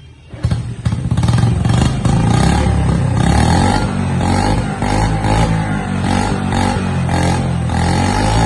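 Restored 1979 Honda motorcycle engine running loudly, starting abruptly about half a second in and holding a steady, pulsing note.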